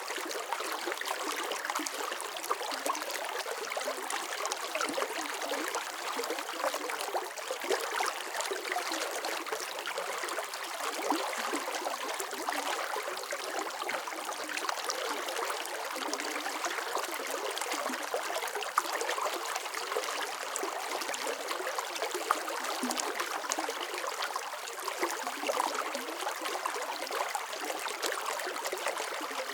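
Running water flowing steadily, a continuous rushing splash with fine droplet patter and little low rumble.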